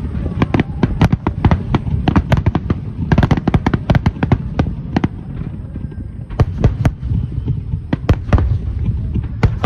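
Fireworks bursting in quick, overlapping succession: many sharp bangs a second over a continuous low rumble.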